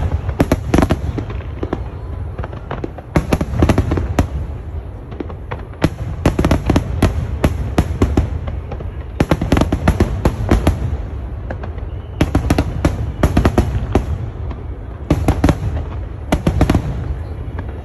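Fireworks display: volleys of sharp bangs and crackles, coming in bursts about every three seconds over a continuous low rumble.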